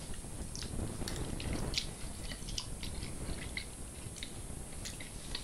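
A person chewing and biting fried catfish close to the microphone, with small irregular mouth clicks and smacks.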